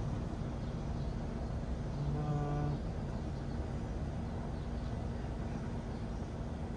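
Steady hum of honeybees from an open hive over low background noise, with a short horn-like tone lasting under a second about two seconds in.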